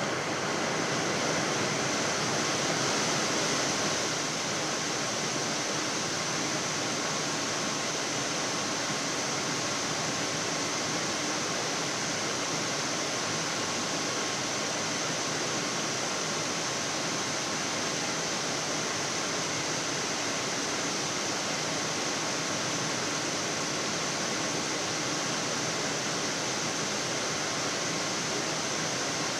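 Steady rushing noise on the flight deck of a Boeing 787 on final approach with the gear down and flaps at 25: the hiss of airflow and cockpit air, unchanging throughout.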